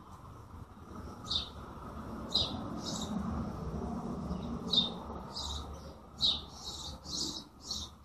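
Small birds chirping: about nine short, sharp high chirps, coming more often in the last three seconds, over a steady low background noise.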